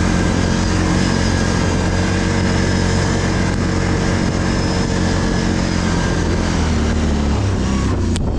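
ATV engine running steadily under load, its pitch easing down a little near the end, with a brief dropout just before the end.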